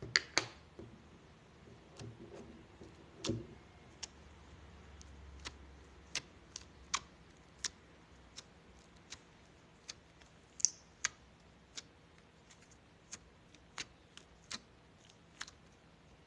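Slime being pressed and worked by fingers, giving sharp, irregularly spaced clicks and pops, about two dozen of them, a few louder than the rest.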